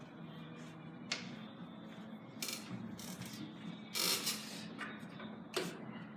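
Sharp clicks and short knocks of carom billiard balls and cues, four or so spaced irregularly, over a low steady hum.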